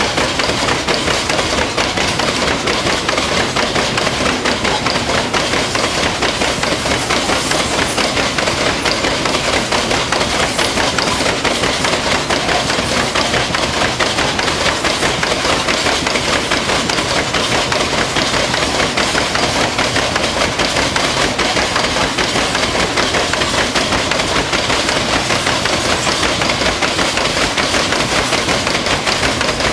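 Hopper wagons of a 3 ft 6 in narrow-gauge gypsum train rolling past close by, their wheels clattering rapidly and steadily on the track.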